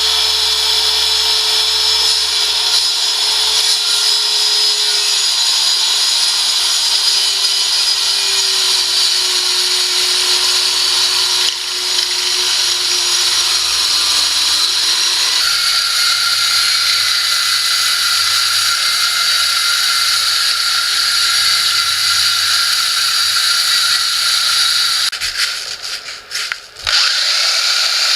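A power tool running steadily as it shapes wood into a round dowel. It dips briefly about eleven seconds in, changes tone a few seconds later, and stutters on and off near the end.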